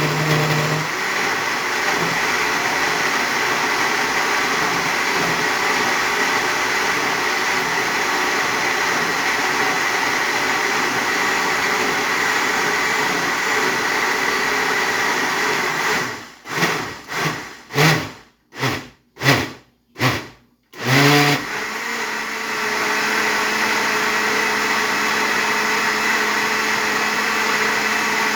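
Electric blender running steadily, puréeing a thick hot pepper sauce with a steady whine. About 16 seconds in it is pulsed on and off in about six short bursts, then runs steadily again.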